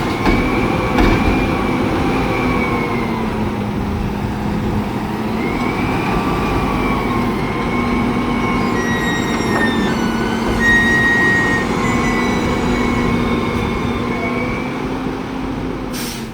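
Garbage truck running with a steady whine that slowly rises and falls in pitch, as the engine and hydraulics work. Brief high squeals come in the middle, and the sound fades out at the end.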